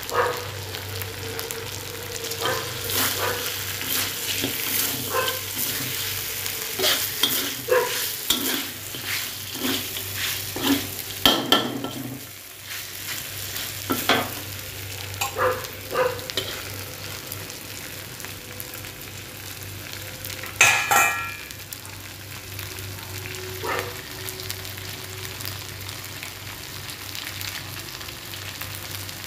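Meat pieces sizzling in a wok while a metal spatula stirs and scrapes them, with frequent clacks of the spatula against the pan. The stirring is busiest in the first half, with a loud scrape about twenty seconds in, and the frying hiss carries on more evenly afterwards.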